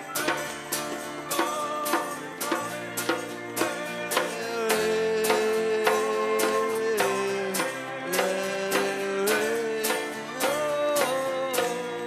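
Live worship band music: a steady, quick drum beat of about three strikes a second under a long, held melody line, with guitar.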